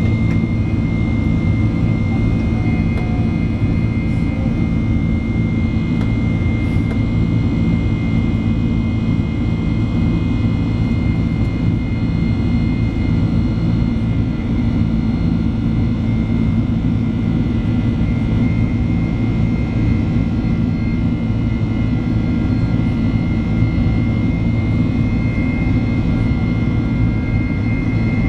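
Boeing 767-300 cabin noise under way: a steady, loud low rumble of jet engines and airflow, with a steady high whine running through it.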